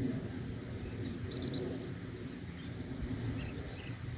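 Small birds chirping, with a few short high calls about a second and a half in and more near the end, over a steady low outdoor rumble.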